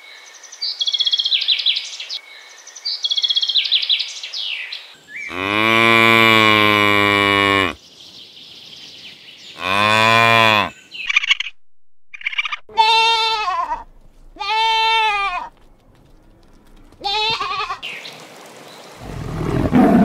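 European bee-eater giving rolling, trilled calls for about the first five seconds, then cattle mooing: two long, low moos, followed by several shorter, higher-pitched calls. A low rushing noise comes in near the end.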